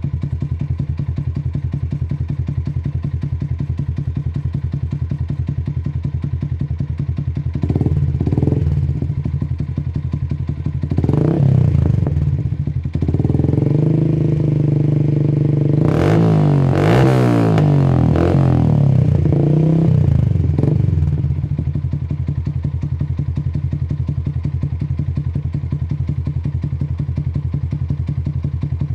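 Yamaha MX King 150's single-cylinder four-stroke engine through an aftermarket racing exhaust, idling with a steady pulse. Partway in it is blipped twice, then revved up and down for several seconds before dropping back to idle.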